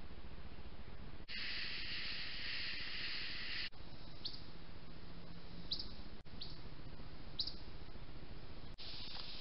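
Woodland ambience from a trail camera: a steady high hiss for a couple of seconds, then a few short high bird chirps, scattered over the rest; the sound drops out briefly at each cut between clips.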